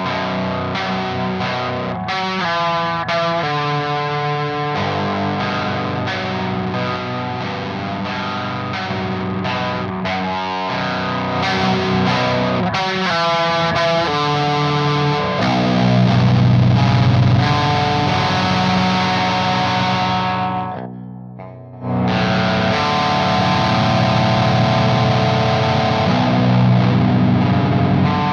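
Electric guitar with passive pickups, tuned to B standard, playing arpeggios through a Frost Giant Electronics The Mountain overdrive/distortion/fuzz pedal in its distortion mode, into a Sunn Beta Lead. Near the three-quarter mark the notes cut out for about a second, then the playing picks up again.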